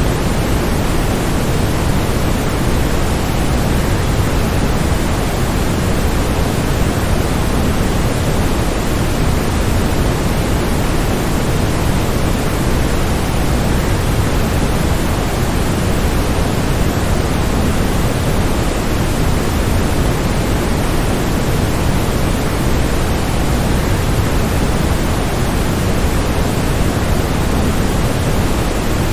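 Waterfall white noise: a steady, unchanging rush of falling water, heaviest in the low end.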